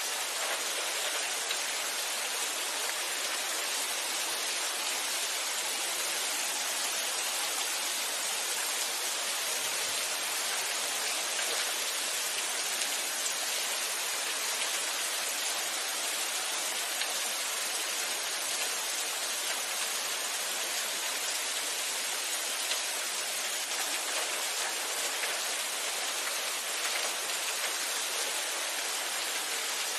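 Steady rainfall, a constant even hiss of drops falling on surfaces with no thunder.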